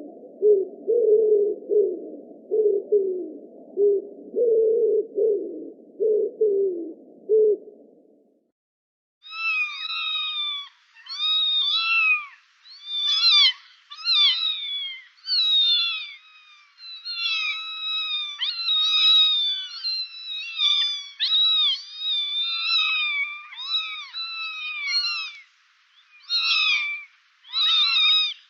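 Pigeons cooing over and over in low, rolling calls for about eight seconds. After a short gap, kittens meow repeatedly in quick, high-pitched calls, one after another.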